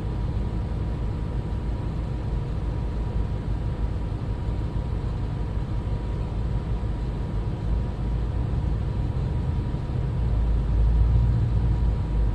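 Shear-sharpening machine running steadily with a low motor hum, a little louder near the end.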